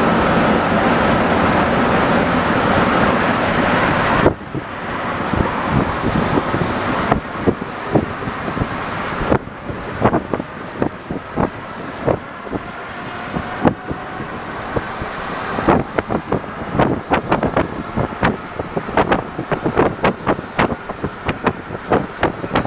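Alstom NS-74 rubber-tyred metro train: steady running noise that cuts off abruptly about four seconds in, followed by irregular sharp clicks and knocks that come thicker in the last several seconds.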